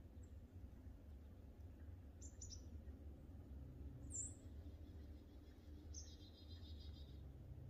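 Faint bird calls: a couple of short high chirps about two seconds in, a single sharp chirp about four seconds in, and a brief buzzy trill lasting about a second near six seconds in.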